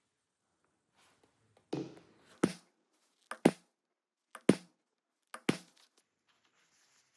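Sharp taps in a small workshop: a softer knock, a single strike, then three quick double strikes about a second apart, each with a short ring.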